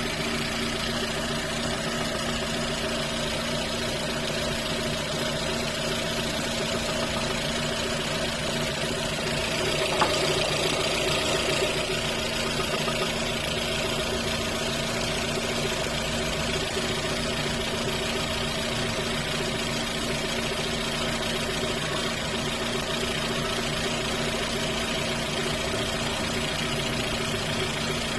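Lada Kalina 2's 1.6-litre eight-valve VAZ-11186 engine idling steadily, with a knock that the owner takes for the camshaft, at 48,000 km. About ten seconds in there is a single click, and the engine runs a little louder for a couple of seconds.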